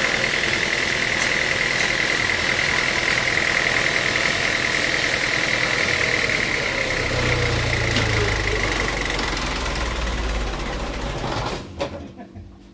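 Sawmill machinery running steadily with a constant high whine over a noisy din. A deeper rumble joins for a few seconds past the middle, and the machinery sound cuts off sharply near the end.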